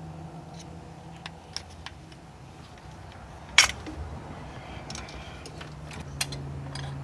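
Scattered metallic clicks and taps of a flathead screwdriver working against the oil pan as it is pried loose from its silicone seal, with one sharp knock about three and a half seconds in. A steady low hum runs underneath.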